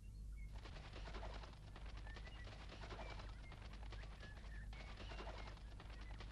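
Faint bird chirps, short high calls, over a dense crackling noise that comes in about half a second in.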